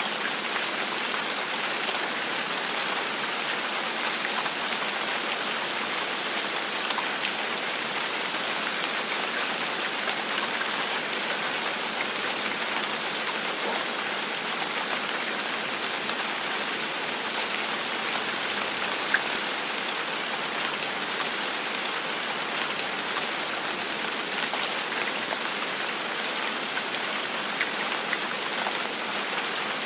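Gentle rain falling steadily: an even hiss with scattered drop ticks, one of them a little sharper about two-thirds of the way through.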